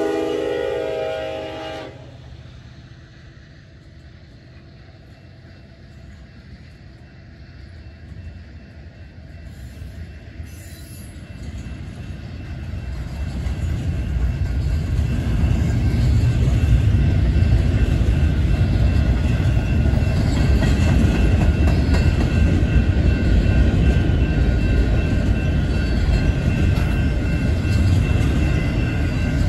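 Union Pacific SD70ACe locomotive's horn sounding, cutting off about two seconds in. Then the double-stack container cars roll past with a steady rail and wheel rumble that grows louder from about ten seconds in and stays loud.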